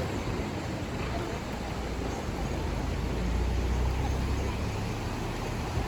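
Steady low rumble of vehicle engine and road noise, swelling slightly around the middle.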